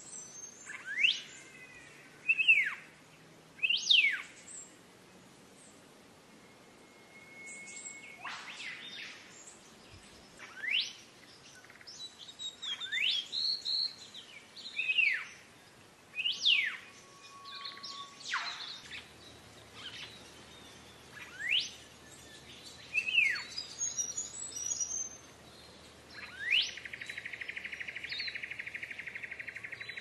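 Black-faced monarch singing: a series of separate whistled notes, each sweeping steeply up or down, one every second or two. About 26 seconds in, a steady buzzing trill starts up beneath the whistles.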